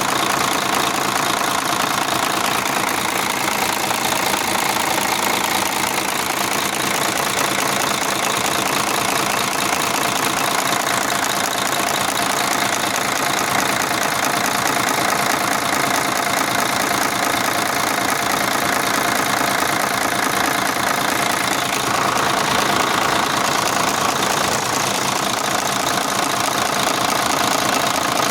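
Mercedes-Benz Actros truck diesel engine idling steadily with a busy mechanical clatter.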